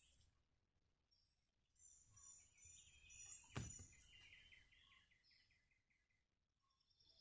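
Faint songbirds chirping in quick trilled series, with a single sharp knock about halfway through.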